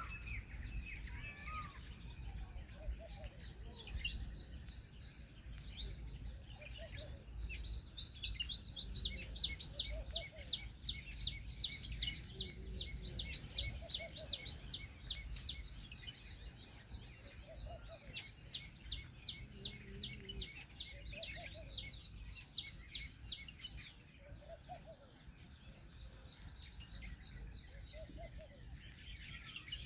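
Many small birds chirping in rapid high trills, loudest from about 8 to 15 seconds in. Faint low cooing notes recur every couple of seconds over a steady low background rumble.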